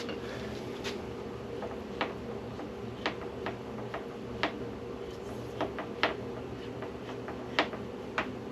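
A dozen or so sharp clicks and taps at uneven intervals over a steady low hum.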